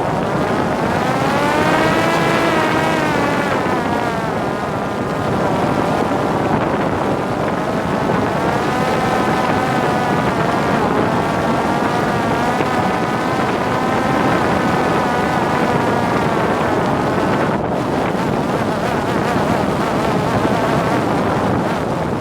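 Parrot Disco drone's electric motor and pusher propeller whining in flight, its pitch rising and falling, under heavy wind rush on the onboard microphone. The motor whine cuts out about three-quarters of the way through, leaving only wind.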